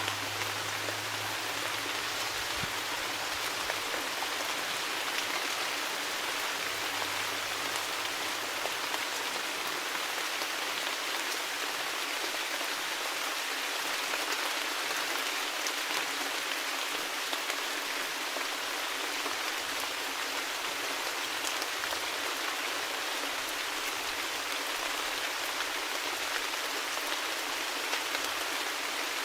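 Steady rainfall, raindrops pattering on surfaces in an even hiss.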